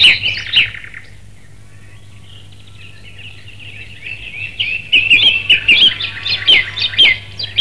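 Small birds chirping and twittering in quick, high runs of notes: a short burst at the start, a pause, then a longer, busier run from about three seconds in.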